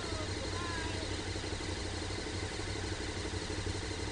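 V-twin adventure motorcycle engines idling steadily, with an even low pulse.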